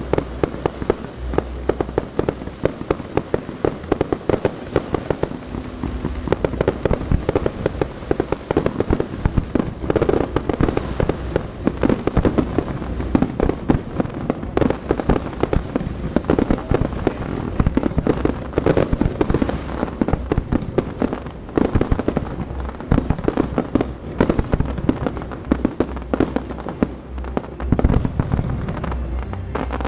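Underwater fireworks going off in rapid succession: a dense, continuous stream of sharp bangs and pops as shells burst at the pond's surface, many each second.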